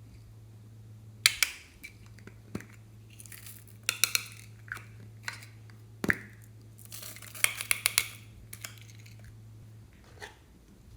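Handling of containers and materials while mixing things into slime: a series of sharp clicks, taps and short crinkles, with the loudest clusters about a second in, around four and six seconds in, and near eight seconds, over a steady low hum.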